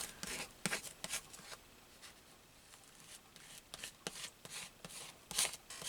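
Hands smoothing a glued piece of wallpaper down onto a page: soft paper rubbing and rustling, which fades out for a couple of seconds in the middle and comes back with a few light ticks near the end.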